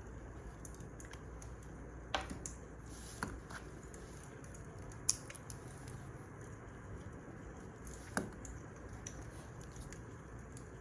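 Wood fire crackling: a steady low hiss with a few sharp pops, four or five in all, the sharpest about five seconds in.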